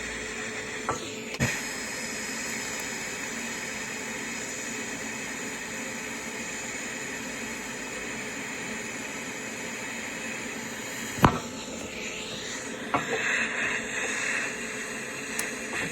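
Welding arc running steadily for about ten seconds, a continuous sizzling hiss, cutting off with a click; a shorter, rougher stretch of arc noise follows near the end.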